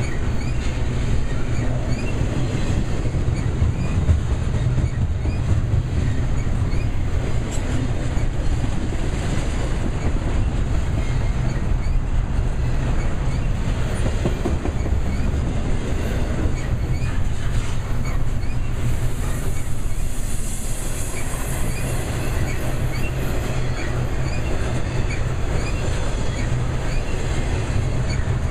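Double-stack container train's well cars rolling past at close range: a steady rumble of steel wheels on the rails, with the rattle of the cars.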